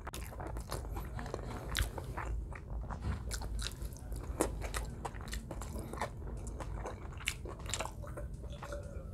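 Close-up mouth sounds of a man chewing food with his mouth open: irregular wet smacks and clicks, with some crunching.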